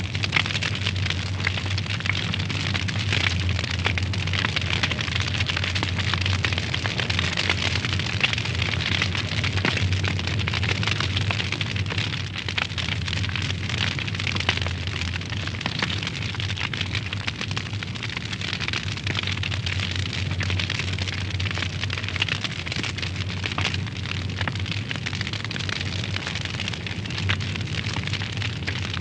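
Wood fire burning in a fireplace: a steady rushing of flames with many small crackles and pops.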